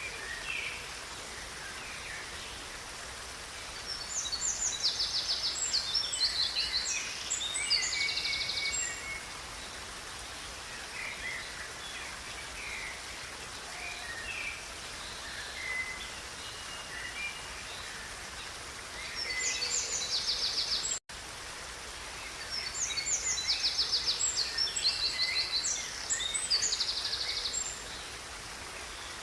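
A songbird singing loud, rapid trilled phrases in two long bouts, with scattered short chirps between them, over the steady rush of a river. The sound drops out for an instant about two-thirds of the way through.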